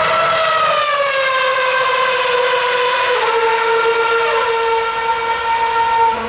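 Formula One car's 2.4-litre V8 running at very high revs, a shrill, steady engine note whose pitch falls slowly over several seconds, with a small step down about three seconds in.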